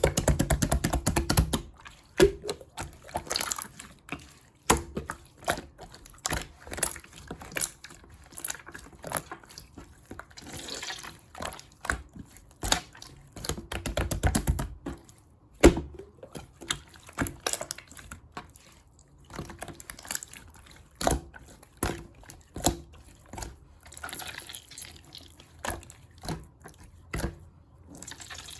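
Clear slime being squeezed and pressed by hand, giving sticky wet clicks and pops from trapped air bubbles. There are quick runs of clicks in the first couple of seconds and again around the middle.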